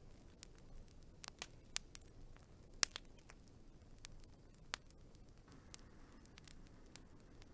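Wood fire crackling: irregular sharp pops and snaps over a faint low rumble of burning, the loudest pop about three seconds in.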